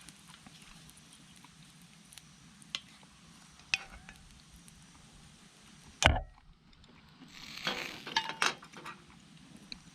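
Camp gear and cookware being handled: scattered light clicks and clinks, one sharp knock about six seconds in, then a second or so of rustling with clinks.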